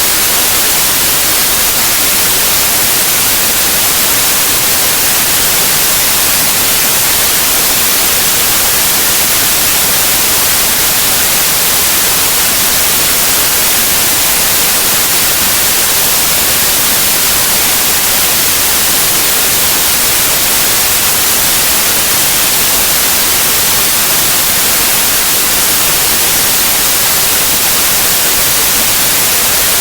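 Steady, unchanging white noise: an even hiss weighted toward the high end, with no variation.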